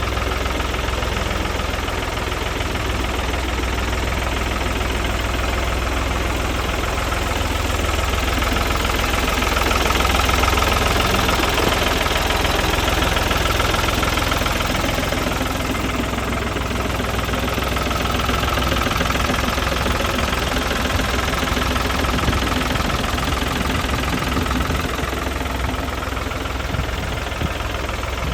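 1968 Ford Force 3000 tractor's three-cylinder diesel engine running steadily, a little louder about ten seconds in.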